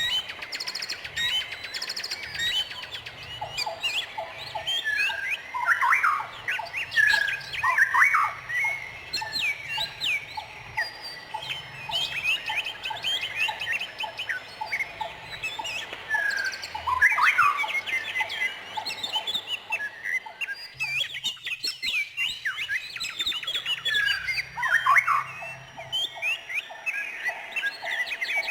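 Several songbirds chirping and calling at once, many short rising and falling notes overlapping, with a fast repeated lower note near the end.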